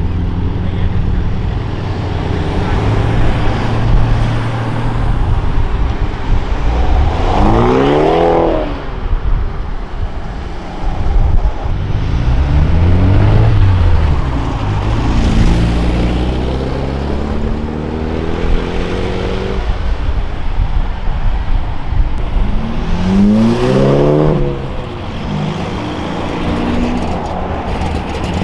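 Modified car engines running as the cars pull away, revving up and dropping back a few times, with one longer climbing rev in the middle.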